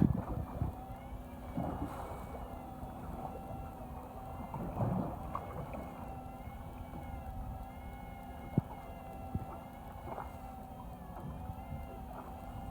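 Fishing boat's engine running steadily, a low hum with a wavering higher whine, broken by a few short rushes of wind or water noise and one sharp knock.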